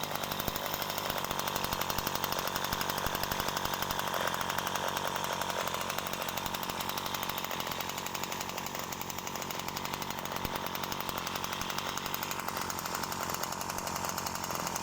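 Home-built Д8 single-cylinder two-stroke bicycle-moped engine running at its first start, with a fast, even firing rattle. It eases off a little around the middle and then picks up again.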